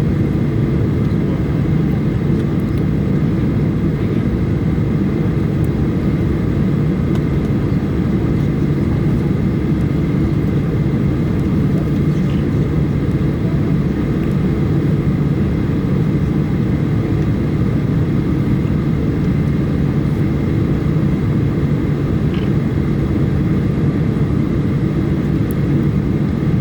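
Boeing 737-800 cabin noise: a steady low drone of the CFM56-7B jet engines and airflow heard inside the cabin, holding an even pitch and level without spooling up or down.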